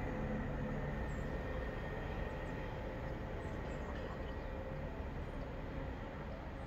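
Low rumble of the departing Linsinger SF06-UK rail milling machine train, slowly fading down the line, with faint steady tones over it.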